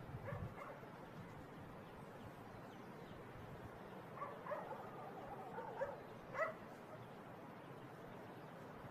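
A dog barking and yelping faintly in the distance, a few short calls clustered a little past the middle, over a quiet outdoor background.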